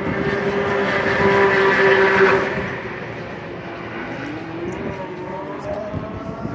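Sports car engine at high revs out on the speedway. One steady engine note grows louder, peaks about two seconds in, then fades. A fainter engine note rises in pitch near the middle.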